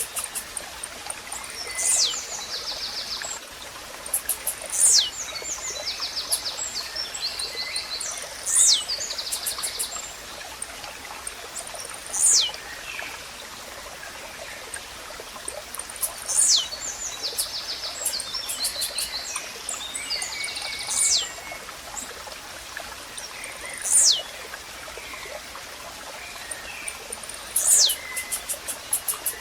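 Blue-black grassquit (tiziu) repeating its short, sharp downward-sweeping song note about every four seconds, eight times. Other birds' chirps and trills sound between the notes over a steady hiss of nature ambience.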